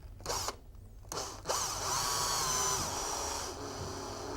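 A brief blip, then a power screwdriver's motor whining steadily for about two seconds as it drives a screw back in.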